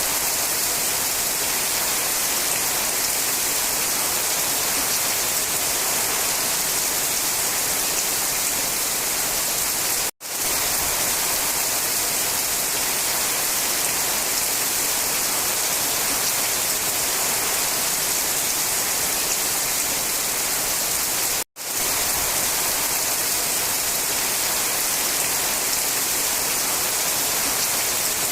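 Steady rain falling in a forest: an even, hissing wash with no single drops standing out. The sound cuts out to silence for a split second twice, about ten seconds in and again about twenty-one seconds in.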